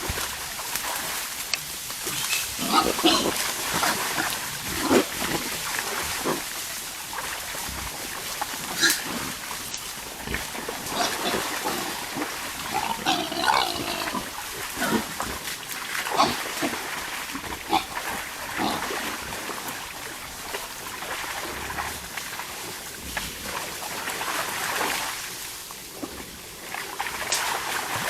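Wild boars grunting at irregular intervals, with a higher-pitched squeal about halfway through.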